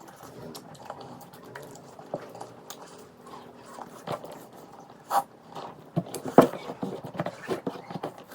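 Close-miked eating sounds: a person chewing and biting food with wet mouth clicks and smacks, irregular, with a few louder smacks about five and six seconds in.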